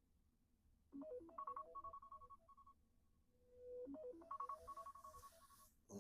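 Faint phone ringtone: a short jingle of stepped beeping tones, played about a second in and again about three seconds later.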